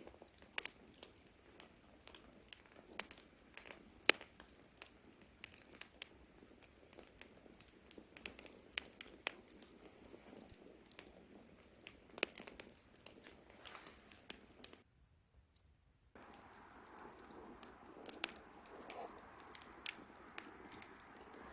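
Campfire wood crackling, with irregular sharp pops and snaps. The sound drops out for about a second just before the last third, then comes back with a steadier hiss beneath the pops.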